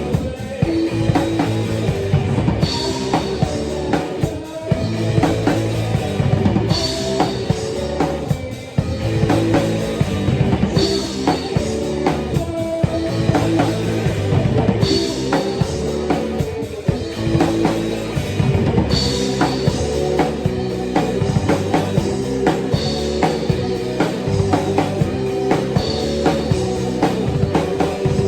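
Live rock band playing a song: drum kit with kick drum and cymbals over guitar, with a bright accent about every four seconds.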